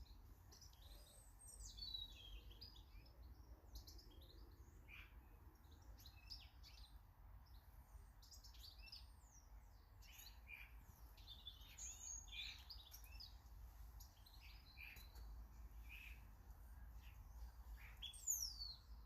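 Faint birdsong from several small garden birds: many short chirps and twitters overlapping, with a louder falling call near the end, over a steady low hum.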